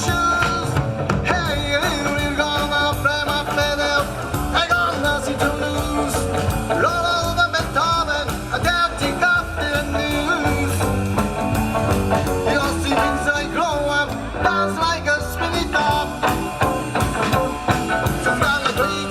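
Live band playing rock-and-roll music.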